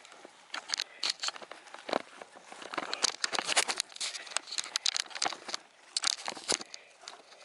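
Irregular close rustling and crinkling handling noises, with many short clicks and scrapes.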